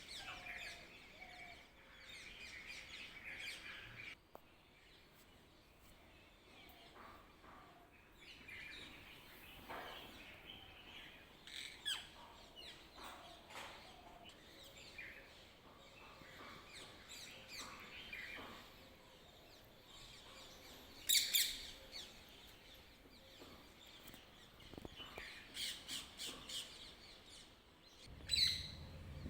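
Wild birds chirping and calling, with short high chirps scattered throughout. A loud burst of chirps comes about two-thirds of the way through, and a quick series of chirps near the end.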